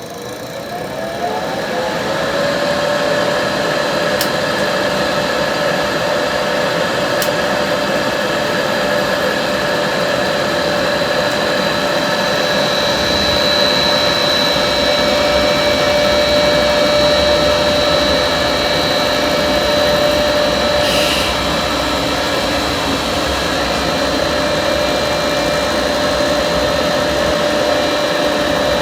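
Water heater power vent blower motor spinning up, its whine rising in pitch over the first two seconds, then running steadily with a constant hum and whine: the repaired fan working again.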